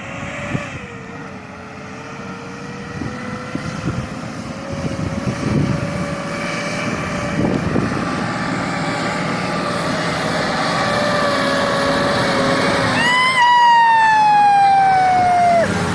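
A heavy vehicle's engine running under load with a whine that climbs slowly, jumps sharply higher about thirteen seconds in, then slides down and cuts off just before the end.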